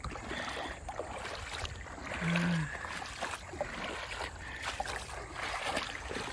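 Creek water sloshing and splashing, with scattered knocks, as a person wades and hauls a kayak through the shallows. A short voiced grunt comes about two seconds in.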